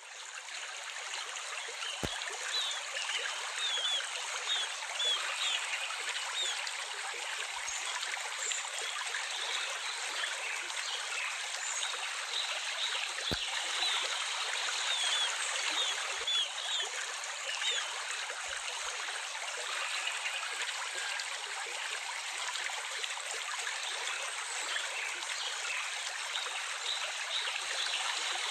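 Gently running water trickling steadily, like a small stream, with small birds chirping now and then in short bursts of high calls.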